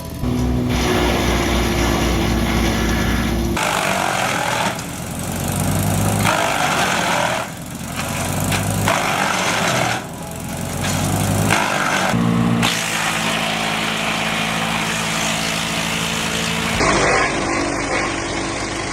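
Wood chippers running in a string of short clips that change abruptly every few seconds: steady engine hum, with rough bursts of wood being fed through and chipped.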